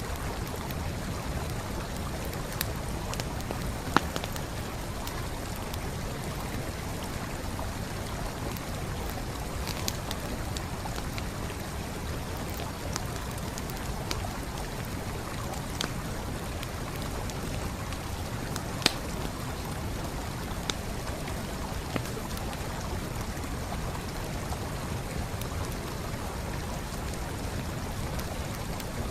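Wood campfire crackling, with single sharp pops every few seconds, over the steady rush of a flowing stream.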